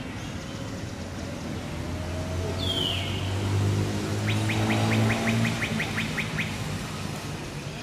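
A bird calling: one downward chirp about two and a half seconds in, then a quick run of about a dozen chirps, roughly six a second. Under it, the hum of a passing motor vehicle swells and fades.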